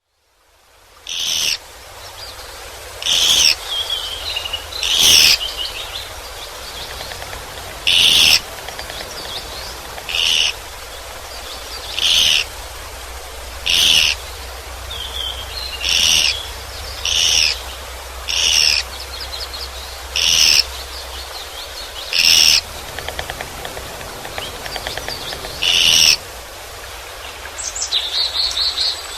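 Japanese pygmy woodpecker calling: short, high calls repeated roughly every two seconds, about a dozen in all, with a longer pause near the end.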